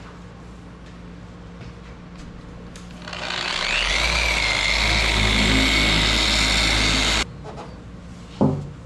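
A small electric motor starts up with a rising whine, runs steadily for about four seconds, then cuts off abruptly. A single knock follows near the end.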